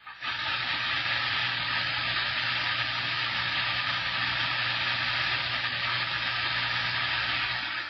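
CB radio receiver hissing with static through its speaker, an open channel with a low steady hum under the hiss; it starts suddenly and cuts off near the end.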